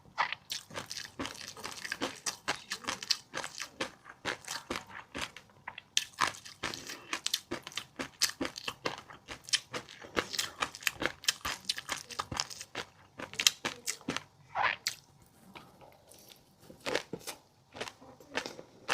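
Close-up eating of fish roe and a crunchy seafood mix: rapid crackling crunches and pops of chewing. They thin out briefly about three-quarters of the way through, then resume.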